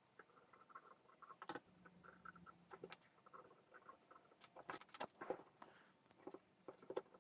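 Faint, scattered small clicks and taps, irregular and sometimes in quick clusters, about two to four a second.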